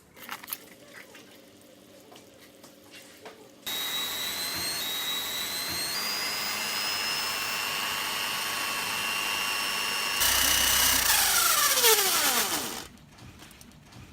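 Electric drill driving a homemade cotton candy spinner: it switches on abruptly a few seconds in and runs at speed with a high steady whine. It gets louder near the end, then is let go and winds down with a falling pitch. Before it starts there are only faint small clicks.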